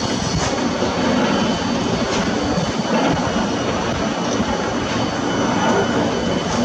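Heavy construction machinery running steadily, a diesel engine with several faint steady high tones above it.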